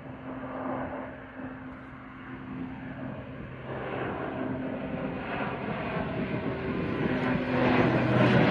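Airliner at takeoff power, its engine noise growing steadily louder as it comes closer, with a few steady low tones running through it.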